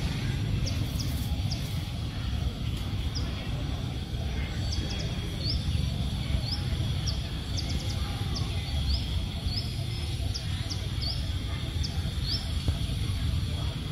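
A bird repeats short, high, upward-sliding chirps about twice a second for several seconds, over a steady low rumble and a faint steady high hum.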